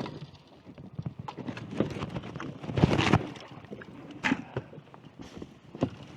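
Irregular knocks and scrapes of a plastic fishing kayak and its gear as it is pushed off and boarded, with a louder rush of noise about three seconds in.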